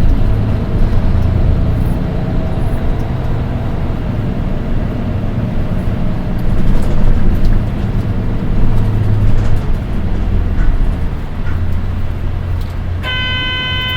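Nissan Diesel Space Runner RM820 city bus running along the road, heard from inside the cabin: a low engine and road rumble that rises and eases, with a faint high-pitched tone over it, the unusually shrill engine note this particular bus is known for. Near the end a short electronic tone sounds for about a second.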